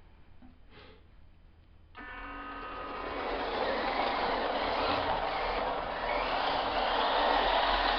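WPL D-12 RC truck's small electric motor whining and its tyres rolling across a hard floor as it is driven, starting suddenly about two seconds in and getting louder.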